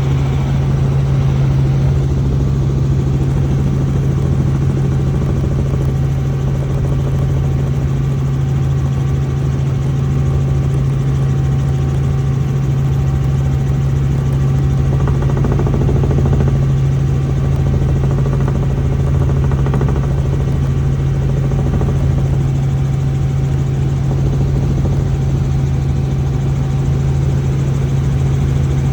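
Helicopter in flight: the engine and rotors run steadily with a strong low hum under an even rushing noise.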